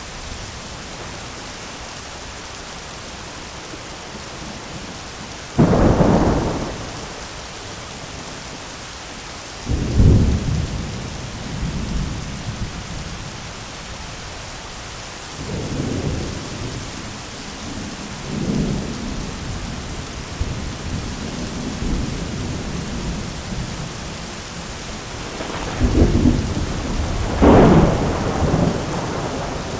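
Thunderstorm: steady heavy rain with thunder. One sharp crack about five seconds in, another at about ten seconds, rolling rumbles in the middle, and two loud claps close together near the end.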